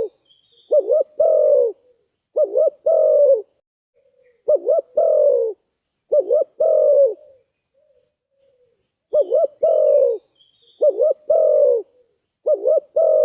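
Spotted dove (tekukur) cooing: seven phrases in a row, each two short rising notes followed by a longer falling coo, with a pause of about two seconds in the middle. Faint high chirps from small birds sound near the start and again about nine seconds in.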